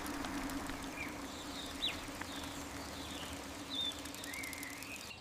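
Faint nature ambience: a handful of short bird chirps and one longer warbling call about four seconds in, over a low steady hum.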